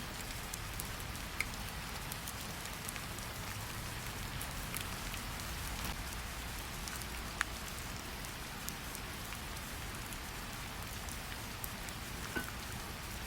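Steady rain falling, with scattered sharp ticks of individual drops landing close by.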